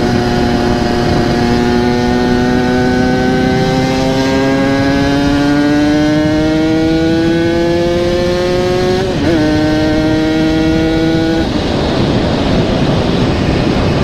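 Yamaha RX-King two-stroke single-cylinder engine with a local aftermarket exhaust, running on steady throttle with its pitch rising slowly. The note wobbles briefly about nine seconds in. It fades out about two and a half seconds later, leaving a rushing road noise.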